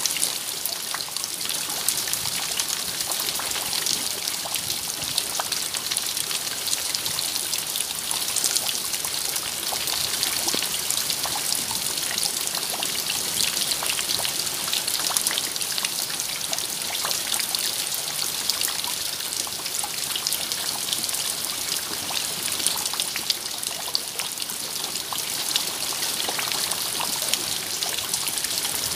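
Steady rain: a dense patter of many small drops, with water trickling.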